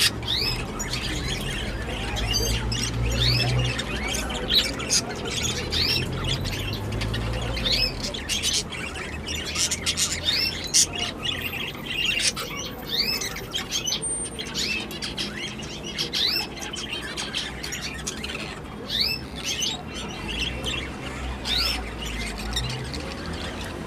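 European goldfinches chirping and twittering, a rapid run of short rising notes that keeps going throughout.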